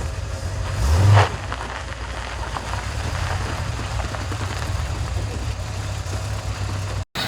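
Car engine running with a low, steady rumble, briefly revved about a second in with a quick rise in pitch and loudness.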